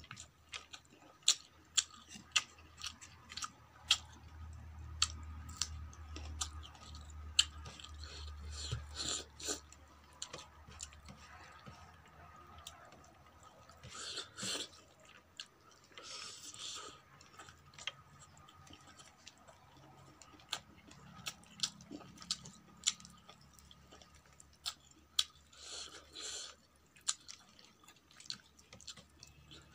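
Close-miked eating: wet, sticky chewing of a mouthful of rice and cooked greens eaten by hand, with many sharp mouth clicks and smacks and a few longer, noisier chews.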